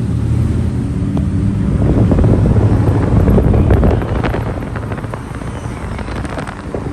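Car engine noise, low and loud, easing off somewhat about four seconds in.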